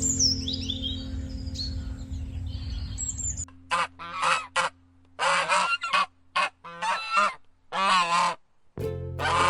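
A goose honking, a run of about six separate honks, over background music with high bird chirps in the first few seconds.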